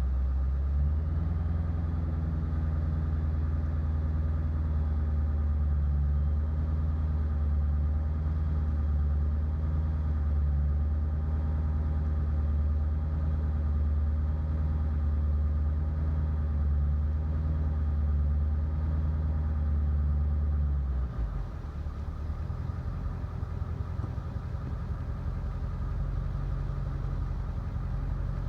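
Ford 7.3 Powerstroke V8 turbo-diesel idling. About a second in the idle steps up and holds steady, then about twenty-one seconds in it drops back to a lower, uneven idle. The engine runs rough, still not right after a new ICP sensor was fitted.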